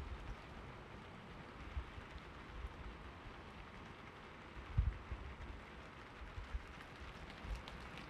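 Steady rain falling, an even hiss, with a few dull low thumps, the loudest about five seconds in.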